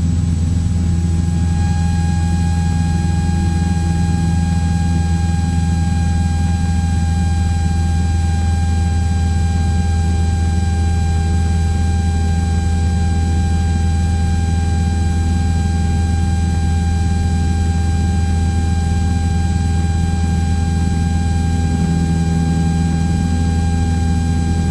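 Cessna 172's piston engine and propeller droning steadily in cruise, heard inside the cabin, with a faint steady electrical whine over it.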